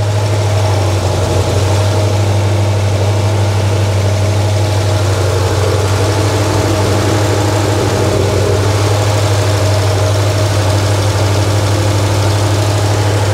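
Freshly rebuilt, Holley-carbureted Ford 302 small-block V8 idling steadily.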